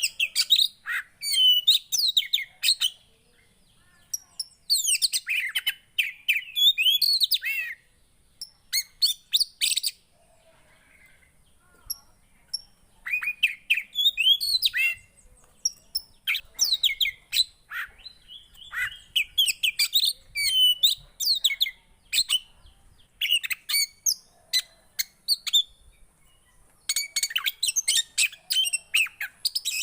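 Song of a 'poci' songbird: bursts of rapid, high chirps and twittering phrases separated by pauses of a second or two, as played to stir caged birds of the same kind into singing.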